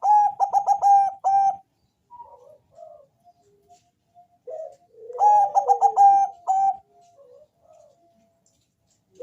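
Zebra dove of the Bangkok perkutut type singing its cooing song: a quick run of repeated coos ending on a longer note, given twice, at the start and again about five seconds in, with softer coos between.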